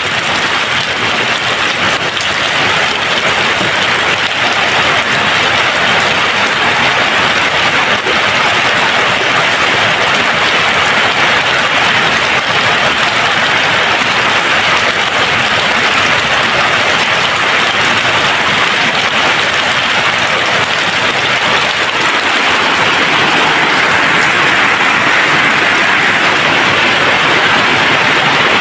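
Steady, heavy rain falling, an even unbroken hiss of drops with no thunder.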